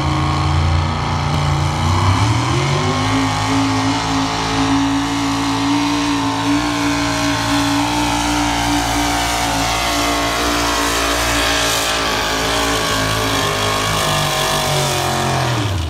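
Pulling tractor's engine under full load during a pull run. The revs climb about two to three seconds in, hold high and steady, then fall off sharply near the end.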